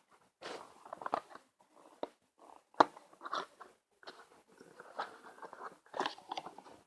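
Close handling noise: irregular crinkly rustles and sharp clicks, with one louder click about three seconds in.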